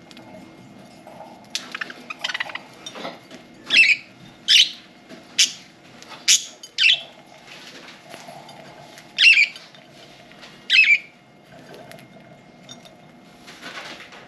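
Budgerigars giving short, loud, high chirps, about seven of them, between about four and eleven seconds in. Quieter clicks and softer chirps come just before.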